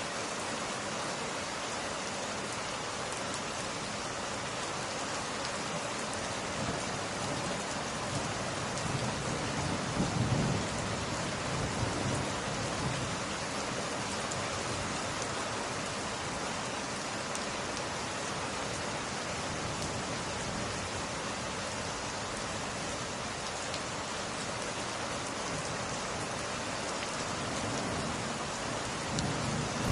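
Steady rain falling, an even wash of drops, with a low rumble swelling about ten seconds in.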